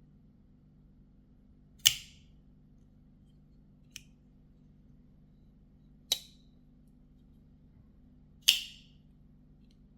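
Titanium-liner flipper knife being flicked open. Three sharp metallic snaps with a brief ring come about two, six and eight and a half seconds in, and a fainter click comes about four seconds in.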